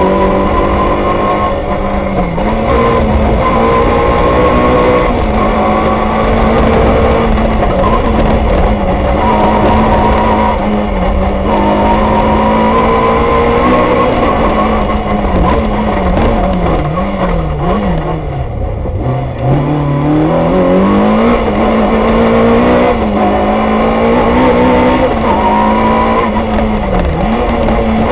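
Peugeot 106 rally car's engine heard from inside the cabin, driven hard: the revs climb and fall over and over through gear changes and corners. About eighteen seconds in the revs drop well down and then climb steadily again.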